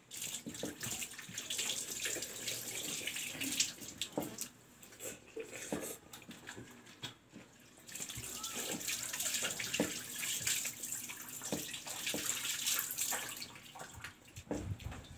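A person eating rice and boiled greens by hand close to a clip-on microphone: wet chewing and mouth sounds with small clicks, and fingers working rice on a steel plate. It comes in two spells with a lull about midway.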